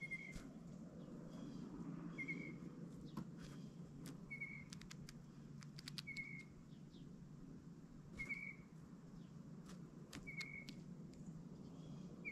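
A small bird's short, clear call note, repeated seven times about two seconds apart, faint, with a scatter of sharp clicks between the notes.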